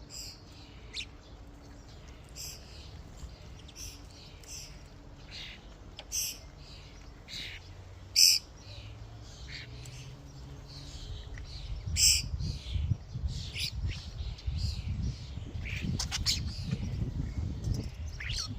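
European starlings calling around a feeder: a scatter of short, high chirps and squawks, the sharpest about eight seconds in and again at twelve. From about twelve seconds a low rumbling with knocks builds underneath the calls.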